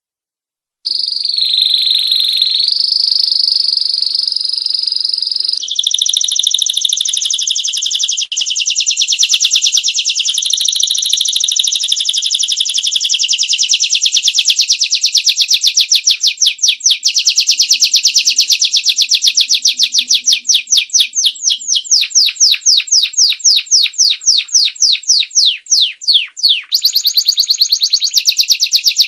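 Domestic canary singing a long, unbroken, high-pitched song that starts about a second in: first smooth warbled rolls, then fast trills of rapidly repeated notes that speed up and slow down.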